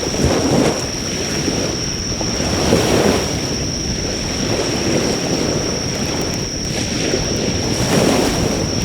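Sea waves surging onto the shore, swelling and fading every few seconds. Through them runs the steady high trill of insects, with faint occasional crackles from a driftwood fire.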